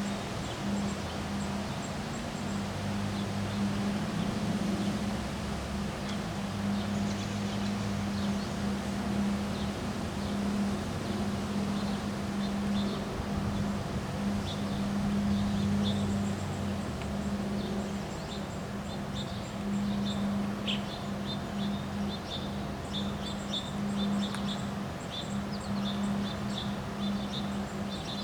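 Windy outdoor ambience: a steady rush of wind with a steady low hum underneath, and small birds chirping in short repeated notes, more often in the second half.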